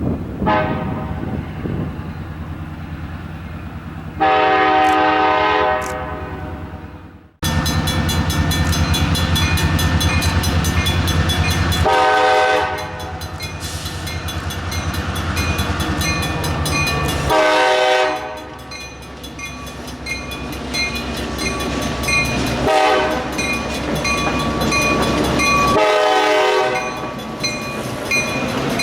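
Diesel freight locomotive passing close by with its engine running loud and steady, sounding its multi-chime horn in several blasts: a long one a few seconds in, then shorter ones later. The sound breaks off abruptly about a third of the way through and resumes.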